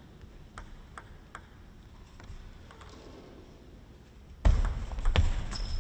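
A table tennis ball clicks sharply three times, about a third of a second apart, then a sudden loud burst of crowd noise breaks out about four and a half seconds in.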